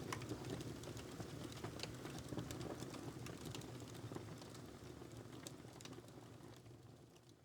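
Wood fire crackling in a fireplace: scattered sharp pops and snaps over a low steady rumble, the whole sound fading out over the last few seconds.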